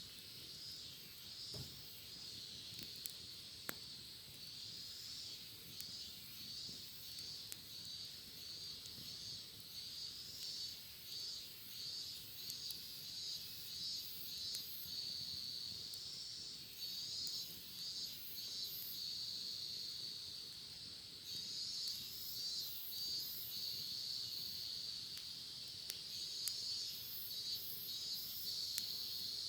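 Cicadas singing, a dense throbbing buzz that pulses several times a second and grows louder partway through.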